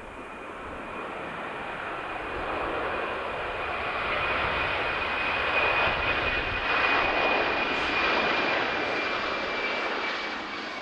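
Airliner's engines passing: a rushing sound that builds for about six seconds and then eases, with a steady high whine on top.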